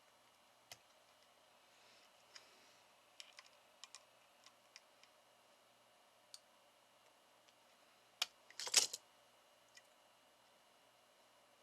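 Scattered faint clicks and light taps of small tools and parts being handled, with a short burst of louder clatter about eight seconds in.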